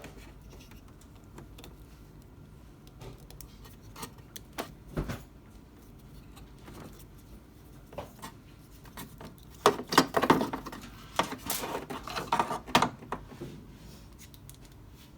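Scattered clicks and small knocks, then a busier stretch of rattling and clattering about ten seconds in: hands and tools working on the plastic lid-lock assembly of an LG top-load washing machine during a lid-lock replacement.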